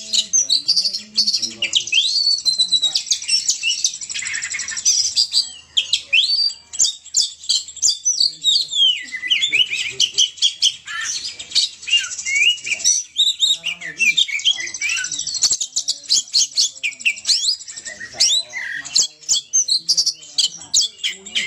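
Oriental magpie-robin (kacer) in full, near-continuous song, which fanciers call gacor: a fast, varied run of high whistles, chirps and rapid slurred notes.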